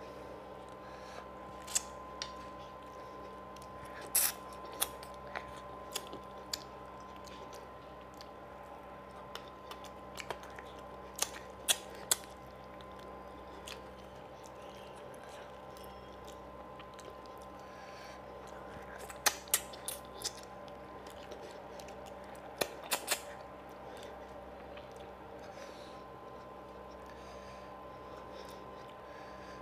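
Close-miked eating sounds of a man chewing fish curry and rice: clusters of sharp, wet mouth clicks and smacks, over a steady electrical hum.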